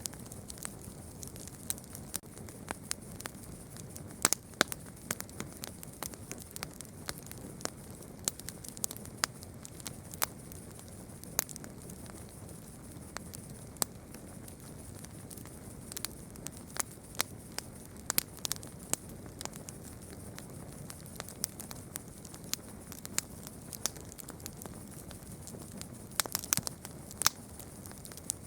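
Wood campfire crackling, with irregular sharp pops and snaps of varying strength over a steady background hiss.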